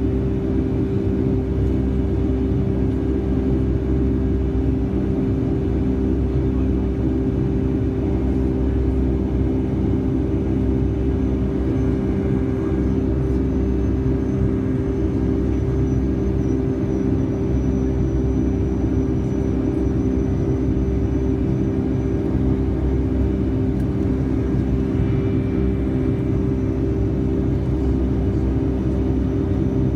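Passenger cabin noise of a Boeing 757-200 in flight: steady jet engine drone and air rush, with a steady low hum tone over it.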